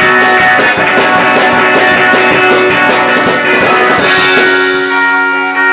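Live rock band playing with electric guitar and drum kit. About four and a half seconds in, the drums stop and the guitar chord is left ringing.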